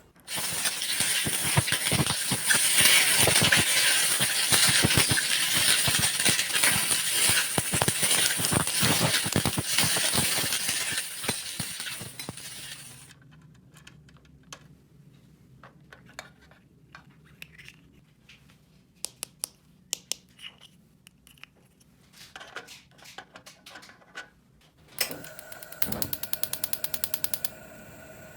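Small plastic toy pieces being handled. A long stretch of dense rattling and crinkling is followed by scattered light clicks, and a quick run of ticking near the end.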